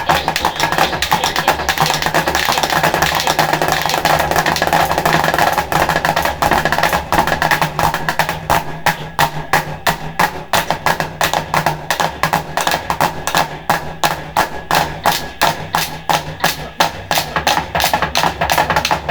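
Percussion group playing a fast, even beat of sharp, clacking strokes, about four a second, with drums underneath.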